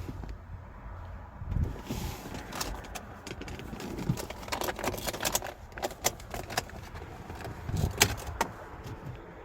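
Irregular clicks, rattles and light knocks from handling around a car. They are busiest in the middle, with a sharp click about eight seconds in.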